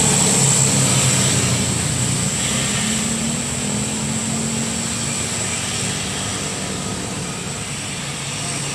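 Loaded dump truck's diesel engine pulling hard up a steep climb, a steady low drone with a high whine above it, slowly fading away.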